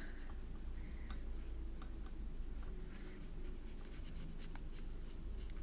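Soft strokes of a watercolor brush on paper, with a few faint ticks over a low steady hum.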